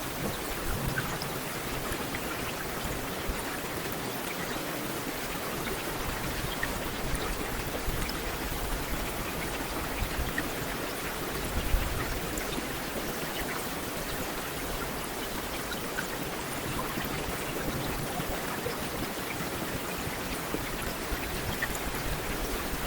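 Heavy rain falling steadily, a dense even hiss with scattered individual drop ticks. About halfway through there is a brief louder low thump.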